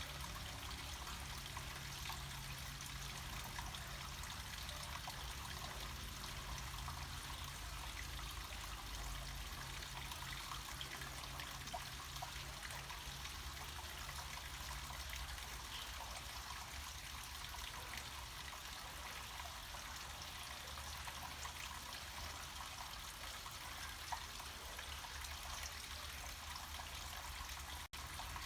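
Water of a small mountain waterfall flowing and trickling steadily, with a momentary dropout near the end.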